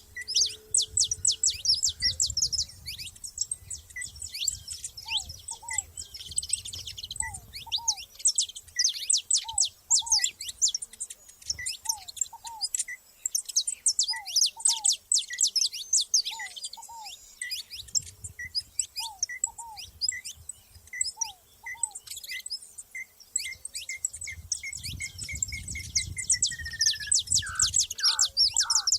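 Saffron finches chirping and singing in a dense chorus of rapid, high chirps. Other bird calls are mixed in, including a steady series of short notes that speeds up and drops in pitch near the end.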